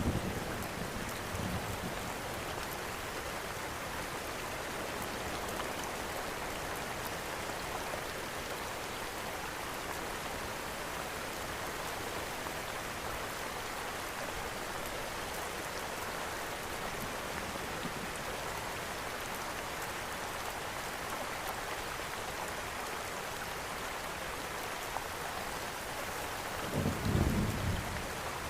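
Steady rain pattering, blended with a fireplace's faint crackles. A low rumble swells and fades about 27 seconds in.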